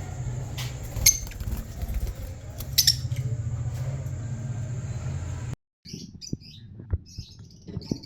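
Lutino lovebirds chirping: two sharp high calls over a steady low hum, then, after a brief cut, a run of quick high chirps in the last couple of seconds.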